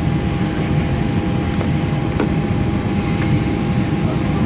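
Steady cabin noise of a Boeing 737-500: an even low rumble with a constant hum on two fixed pitches and a few faint ticks.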